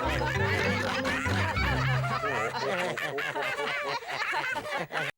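Several cartoon characters laughing together over light background music; the music's low notes stop about halfway through, the laughter carries on, and the sound cuts off abruptly at the end.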